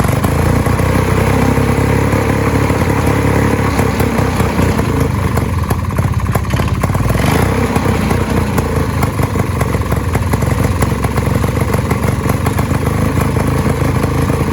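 Vintage snowmobile's small two-stroke engine running steadily, its revs shifting a little.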